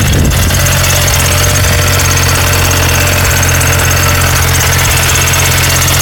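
Car engine idling steadily with a fast, even ticking noise over its hum, which the owner suspects comes either from a bad pulley or from the variable valve timing (VVT).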